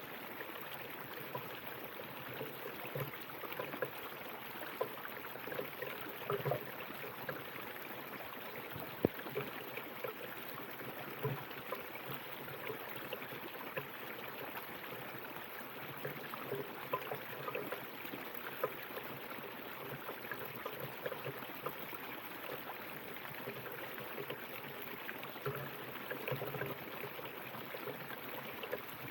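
River water flowing steadily over rocks, with a constant rush and many small irregular gurgles and splashes.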